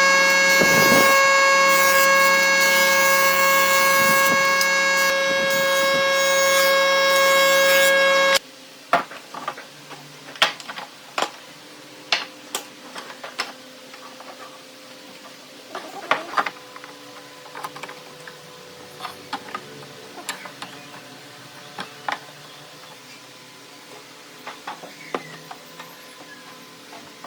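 A power tool's motor running with a steady, loud whine, which cuts off suddenly about eight seconds in. After that, scattered sharp knocks and taps of wood being handled and worked by hand.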